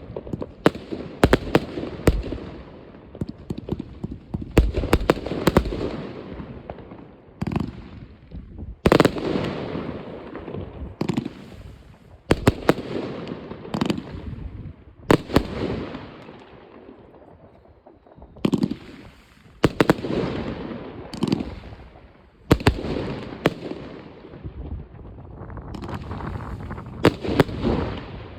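New Year's Eve fireworks: a rapid, irregular series of sharp bangs, some in quick clusters, each followed by a rumbling echo that fades.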